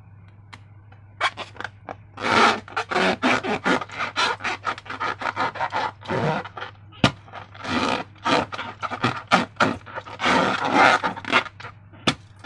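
Slime being worked by hand or with a tool: rapid, irregular scraping strokes that start about a second in and come in loud clusters.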